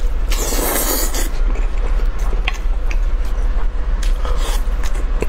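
Close-miked eating of saucy braised meat: a loud biting, tearing noise lasting about a second near the start, then chewing with many small clicks and smacks. A steady low hum runs underneath.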